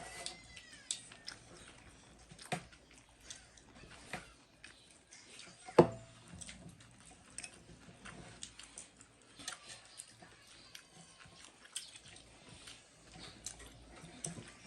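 Close-up chewing and mouth sounds of people eating buffalo meat and rice, with scattered wet smacks and small clicks; one sharper click about six seconds in.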